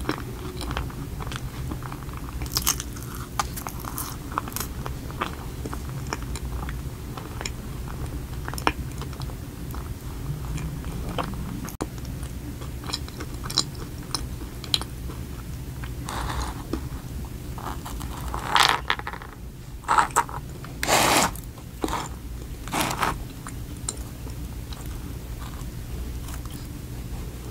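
Close-miked chewing of donut, with many small wet mouth clicks and soft crunches. A few louder noises come about two-thirds of the way in.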